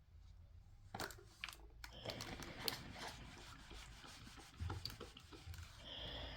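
Rubbing and scraping handling noises with scattered small clicks, a couple of sharper knocks about a second in.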